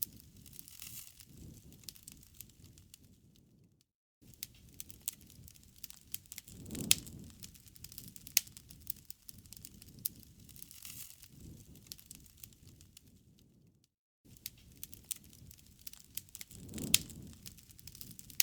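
Wood fire crackling: scattered sharp pops and snaps over a low rumble of burning, which swells twice. The sound drops out completely for a moment twice, about ten seconds apart.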